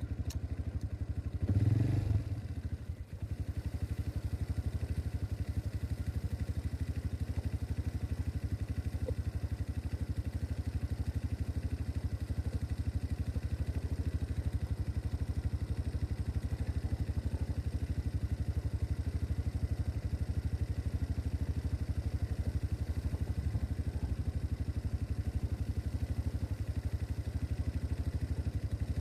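2025 MB Glock 200cc ATV's single-cylinder four-stroke engine idling steadily, with one short, louder burst about two seconds in.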